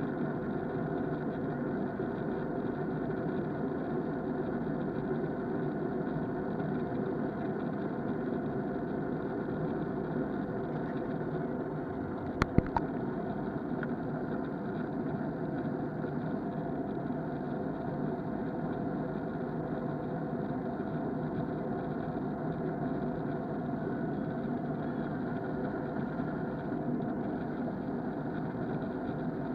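Steady engine and airflow rumble inside the cabin of an Airbus A321 with IAE V2500 engines in flight, heard from a window seat. About halfway through come three sharp clicks in quick succession.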